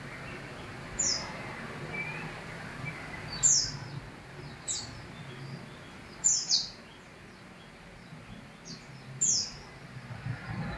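Small bird chirping: several short, high chirps, each sliding down in pitch, spaced a second or two apart.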